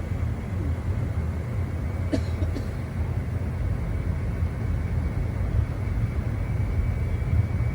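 Amtrak Empire Builder passenger train running with a steady low rumble. Two brief sharp sounds about two seconds in.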